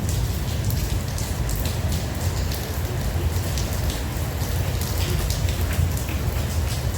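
Heavy rain falling steadily, a dense patter of drop hits over a constant low rumble.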